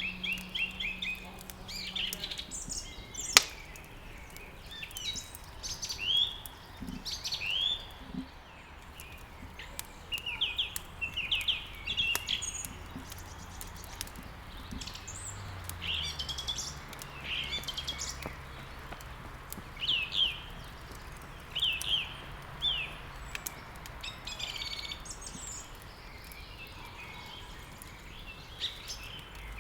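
Songbirds chirping and twittering in frequent short phrases, mixed with the crackle of a wood fire. A single sharp pop about three seconds in is the loudest sound.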